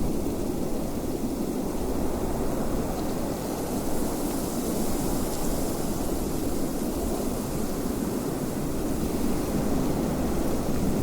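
Wind blowing in a steady, even rush, heaviest low down, with no gusts or breaks.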